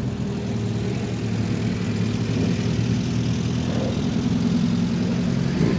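A car engine idling steadily, an even low running note with no revving.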